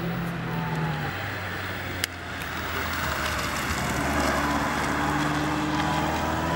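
A classic car's engine running as the car drives past at speed. The pitch drops about a second in and then climbs gradually, with a single short click about two seconds in.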